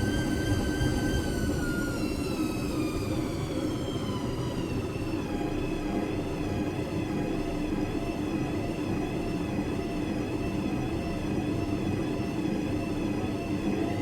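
Washing machine running: a high motor whine drops in pitch about two seconds in, then holds with a slight wavering, over a steady lower hum and rumble.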